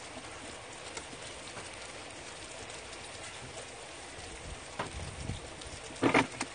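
Steady hissing patter of rain with scattered small clicks, and a brief louder sound about six seconds in.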